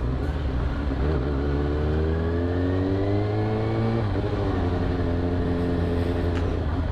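Four-cylinder sport motorcycle engine accelerating, its pitch climbing steadily, then dropping sharply about four seconds in at an upshift and climbing again.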